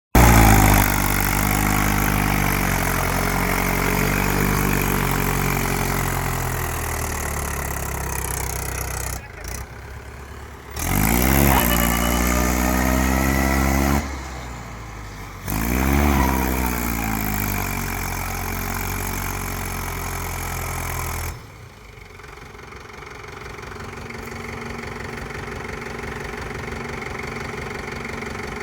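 Mahindra tractor's diesel engine running hard under load as it strains to pull a stuck trolley out of mud, revving up sharply twice in the middle and easing back each time. Near the end it drops suddenly to a quieter, steady run.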